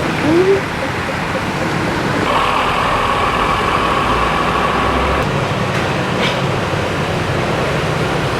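Steady road traffic noise, with a louder stretch and a low rumble from about two to five seconds in.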